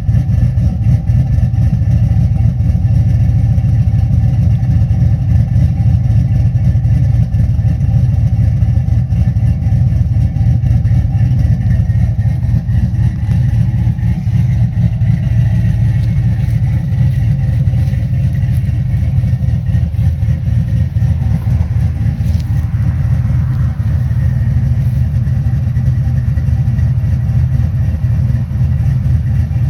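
Chevrolet Silverado's cammed V8 with long-tube headers idling steadily with a choppy lope, warming up after a cold start.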